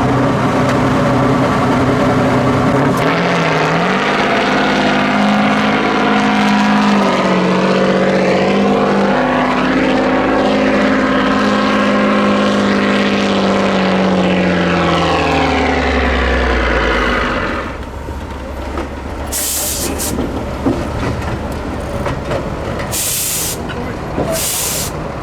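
Heavy off-road trial truck's diesel engine revving up under load, held high for several seconds, then falling back and easing to a lower running note. Several short, sharp air hisses from the truck's air brakes follow near the end.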